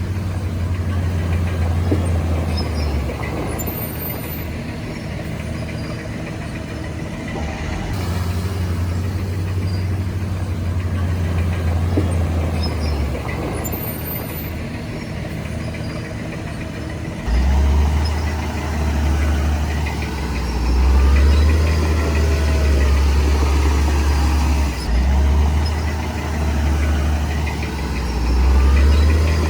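Heavy earthmoving machinery's diesel engine running steadily, a low drone. It changes abruptly a few times, and in the second half it is louder and its pitch rises and falls.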